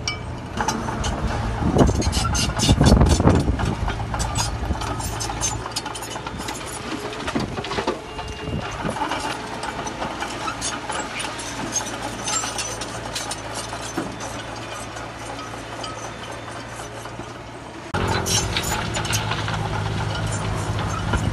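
Heavy construction machinery's diesel engine running steadily, with frequent metallic clanks and rattles. It gets louder about two seconds in, and the engine sound changes abruptly shortly before the end.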